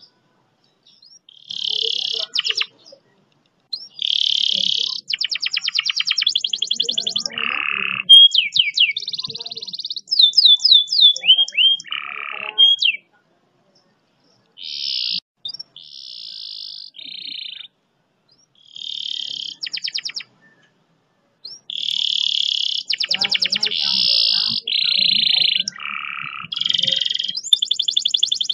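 Domestic canary singing in phrases of very fast repeated-note rolls and buzzy high notes, with a few short pauses between phrases.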